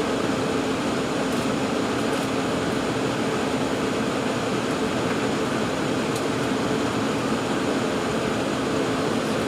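Steady cabin noise inside an Embraer 195-E2 airliner: its Pratt & Whitney PW1900G geared turbofans and cabin air running evenly, with a low, steady hum.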